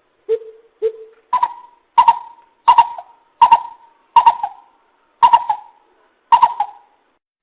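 Coucal giving its deep hooting call: a series of about nine hollow notes, the first two lower and the rest higher, spaced well under a second apart.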